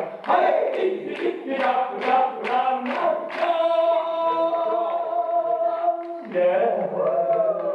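Several voices singing together in a live stage show. About three seconds in they hold one long chord for a few seconds, then move on again.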